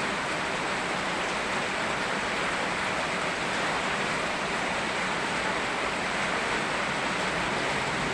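Rain and a flowing river making a steady, even rushing hiss, with no separate drops or other events standing out.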